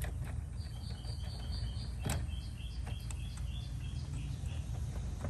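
Outdoor background with a steady low rumble and a bird chirping a series of short, high notes that step down in pitch. A few sharp clicks as capacitor wires are handled and pushed onto terminals.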